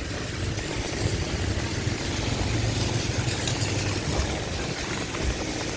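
Motor vehicle traffic on a rain-soaked street: an engine running over a steady hiss of rain and wet road.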